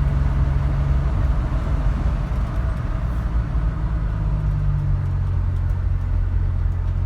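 1978 Dodge D100 pickup's recently rebuilt slant-six engine running steadily under way, with road and tyre noise, heard from inside the cab.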